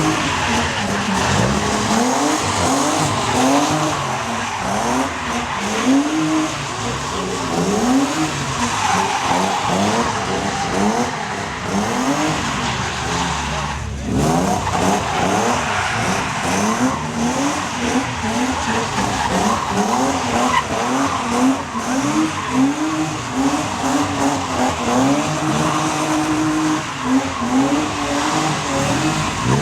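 Drift cars' engines revving up and falling back over and over, with tyres squealing and skidding. There is a sudden break about halfway through.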